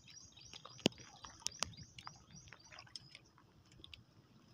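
Faint, quick high-pitched bird chirps repeating several times a second, with a few sharp clicks about a second in and again near a second and a half.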